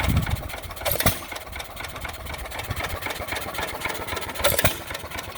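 1945 John Deere E 1½ hp single-cylinder hit-and-miss gas engine running. It fires with a loud bang about a second in and again near the end, and coasts with a lighter, even ticking rhythm in between.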